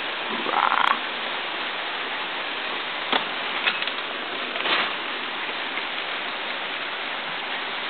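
Steady rain falling, an even hiss, with a brief louder sound about half a second in and a few short taps or drips around three to five seconds in.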